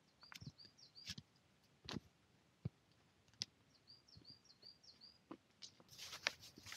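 A small bird calling in two quick runs of short high notes, over scattered sharp clicks and knocks. About six seconds in, footsteps start crunching through a thin layer of snow over dry fallen leaves.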